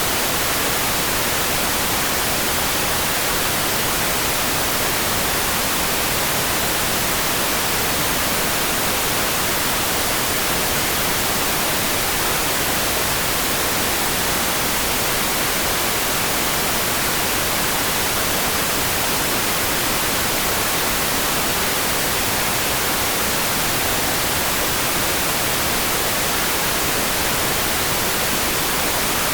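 Steady, unvarying hiss of a rain-for-sleep noise track, brightest in the highs, with no separate drops, thunder or change in level.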